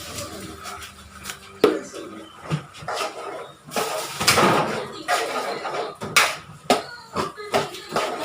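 Cookware clattering: a metal utensil knocking and scraping against a pot or pan in a series of sharp, irregular clicks and knocks, with a short noisy rush a little past the middle.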